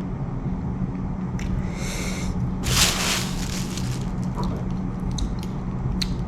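Chewing and squishy mouth noises from someone eating a soft char siu manapua bun, over a steady low hum, with a short breathy rush about three seconds in.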